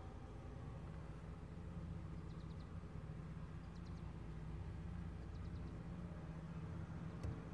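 Steady low hum with three brief, faint high chirps spread through it and a single sharp click near the end.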